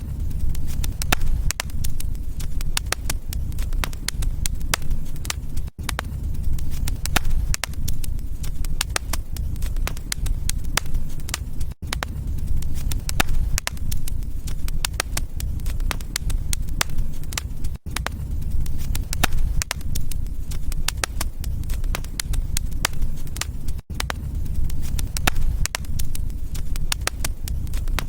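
Wood fire crackling in a fireplace: many sharp pops and snaps over a steady low rumble, with a brief drop-out about every six seconds.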